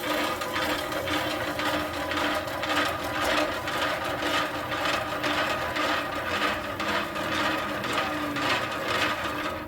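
Small electric concrete mixer running empty for a test, a steady motor hum with a regular clatter from the turning drum, switched off at the end.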